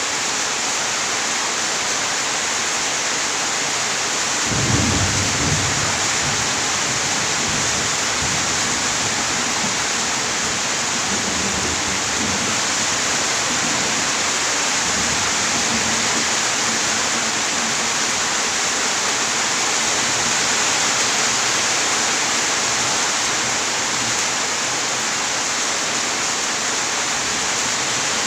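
Heavy rain falling with a steady dense hiss. About four seconds in, a roll of thunder breaks in and rumbles low for about ten seconds before fading under the rain.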